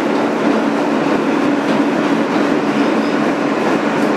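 Interior of a 2008 Kawasaki R160B New York subway car running along the track: a steady, loud rumble of wheels and car noise with a constant low hum underneath.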